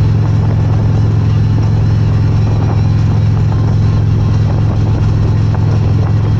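Motorcycle engine running at a steady speed while riding, a constant low drone under wind and road noise.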